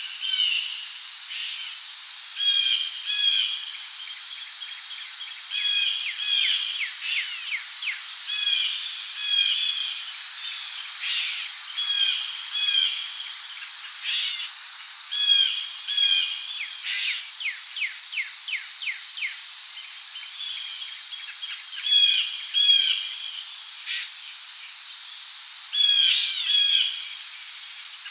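Rainforest ambience: crickets keep up a steady high-pitched trill while birds call over it in short repeated chirps, with a fast run of notes about two-thirds of the way through.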